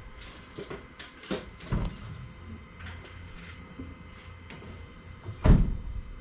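Scattered knocks and clatters of hard objects being handled, with one heavy thump about five and a half seconds in.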